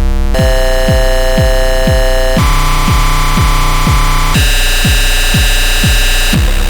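Eurorack modular synthesizer patch built around the Paratek SATURN square-wave noise module. A dense cluster of buzzing square-wave tones changes to a new set about every two seconds, over a kick drum that hits about twice a second.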